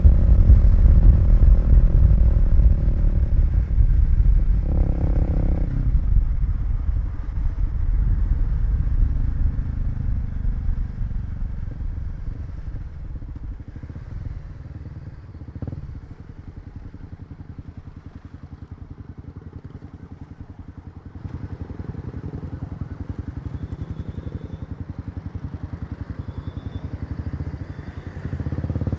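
Kawasaki KLX250 single-cylinder four-stroke engine heard from the rider's seat, running under way, then easing off and dropping to a quiet, evenly pulsing idle about halfway through. The engine picks up slightly a few seconds later, with a short louder swell near the end.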